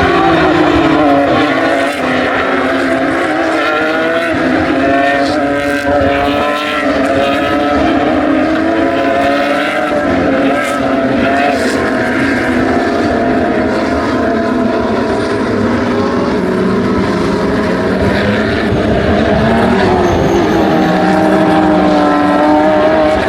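Racing car engines running at high revs, several at once, their pitch rising and falling as the cars go by on the circuit.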